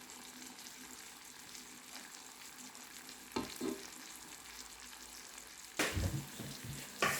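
Riced cauliflower frying in butter in a pan, a faint steady sizzle, with a few short knocks of a utensil against the pan, once about halfway through and a quick cluster near the end.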